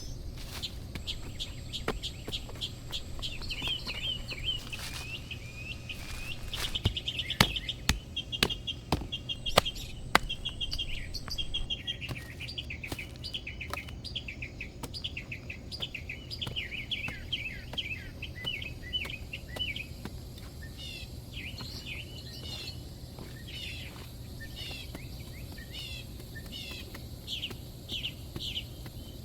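Small birds chirping and singing, with a few sharp knocks about seven to ten seconds in.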